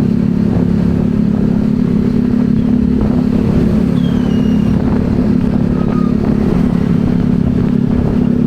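Motorbike engine running at a steady speed while riding, with an even hum that neither revs up nor dies away.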